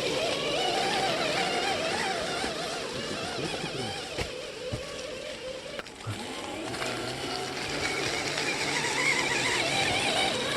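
Electric motor and gearbox of a scale RC truck whining, the pitch wavering up and down with the throttle, easing off briefly in the middle with a few light clicks.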